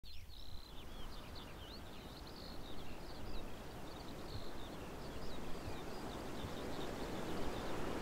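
Small birds twittering, a rapid run of short, high chirps, over a steady background hiss.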